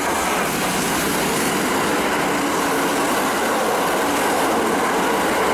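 Kintetsu limited express electric train passing through the station at speed without stopping: a loud, steady rush of wheel and running noise as the cars go by on the near track.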